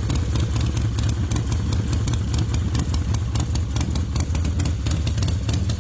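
Motorcycle engine idling steadily with a rapid pulsing beat.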